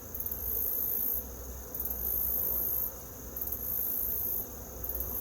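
High-pitched insect chirping that comes in pulses about a second long, repeating roughly every one and a half seconds, over the faint steady hum of honeybees around an open hive.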